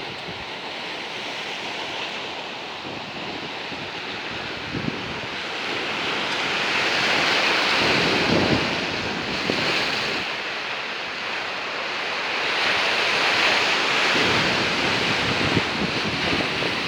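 Storm surf: heavy waves breaking and foaming onto the shore, swelling twice, with strong wind buffeting the microphone.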